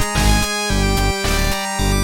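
Chiptune music from the Furnace tracker: synthesized sound-chip tones playing held notes and chords over a beat of kick drums that drop sharply in pitch.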